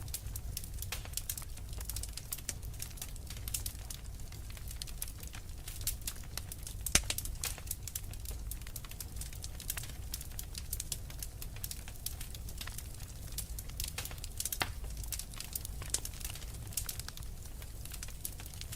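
Wood fire crackling continuously: many small sharp pops and snaps over a low steady rumble, with one louder pop about a third of the way in.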